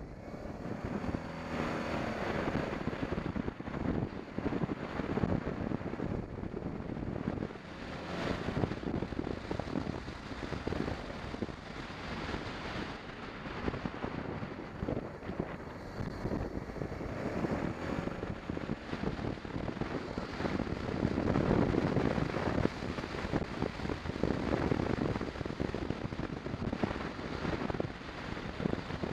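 BMW 650 GS motorcycle being ridden: the engine runs under wind rushing over the microphone, getting somewhat louder about three quarters of the way through.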